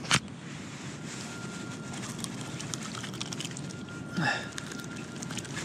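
Steady rain falling on water and clothing, with many small scattered drop ticks. A sharp click comes just after the start, and a brief voice sound about four seconds in.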